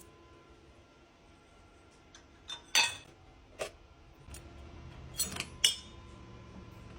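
Dishes, glasses and cutlery clinking as they are set into a dishwasher rack: five or so sharp clinks with brief ringing, the loudest about three seconds in.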